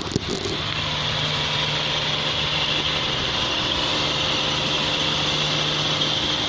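Subaru EJ25 2.5-litre flat-four boxer engine idling steadily, with a short click near the start.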